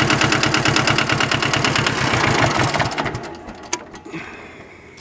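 Yanmar 18-horsepower two-cylinder diesel tractor engine running with an even chugging beat, then slowing and stopping about three seconds in as it is shut off. A few sharp clicks follow.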